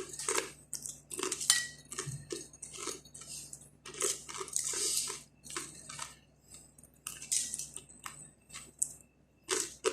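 Irregular clatter, clicks and crinkling of food being handled: dishes, utensils and plastic packaging.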